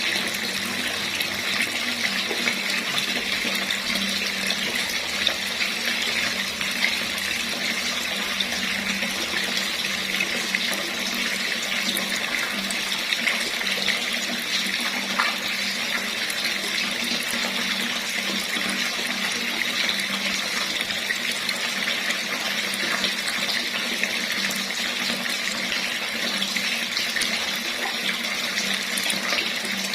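Water running steadily from a tap, an unbroken rushing splash.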